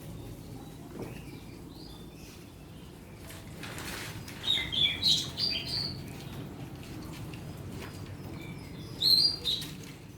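Small birds chirping in short bursts, loudest about halfway through and again near the end, over a steady low hum.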